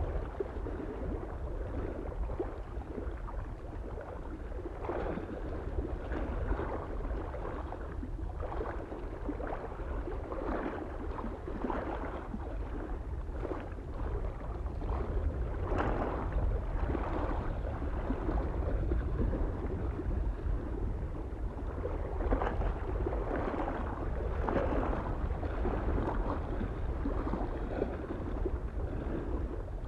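Small waves lapping and splashing against a lake shore in uneven washes about once a second, over a steady low rumble of wind on the microphone.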